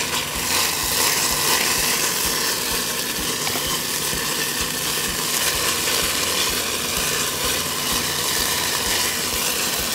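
Diced red onions and barbecue sauce sizzling in an enameled cast-iron pot as a wooden spoon stirs and scrapes them, with a steady low hum underneath.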